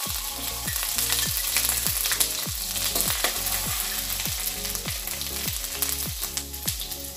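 Garlic paste sizzling as it fries in hot oil in a kadai, stirred with a steel spoon. Under the sizzle runs a low beat about every two-thirds of a second.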